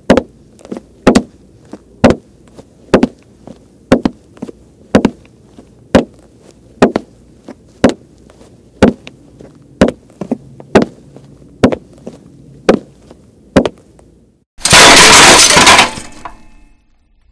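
Heavy footsteps thudding about once a second, then near the end a loud crash of breaking glass or dishes that dies away with a brief ringing of shards.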